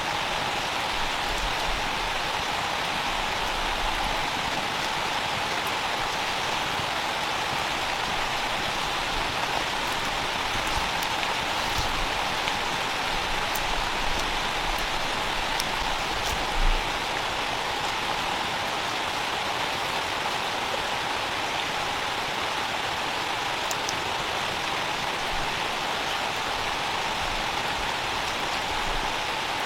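Steady rain falling, an even hiss without a break, with a single low thump about seventeen seconds in.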